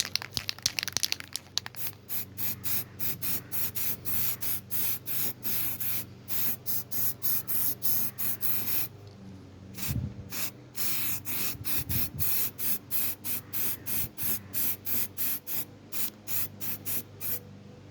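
Aerosol can of weld-through primer spraying in short hissing bursts, about two to three a second, with one brief pause a little past halfway.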